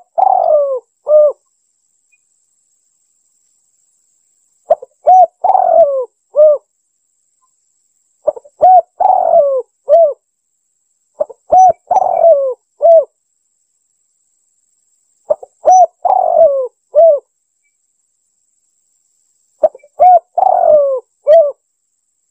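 Spotted dove (tekukur) song: a phrase of a few short coos with one longer coo that falls in pitch, repeated about every four seconds, six times. A faint steady high whine runs underneath.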